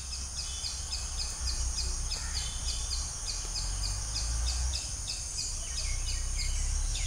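Outdoor ambience: a bird repeats a short falling chirp about three times a second over a steady high insect drone and a low rumble.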